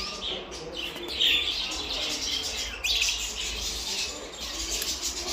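Finches singing: a continuous run of fast, high-pitched trills and chirps, with louder bursts about a second in and just before three seconds.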